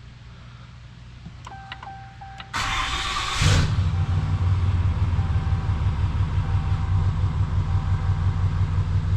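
The Cummins 6.7-litre turbo-diesel is cranked and catches about three seconds in, then settles into a steady, pulsing diesel idle, with a warning chime beeping during the start. It is the first start after an oil change.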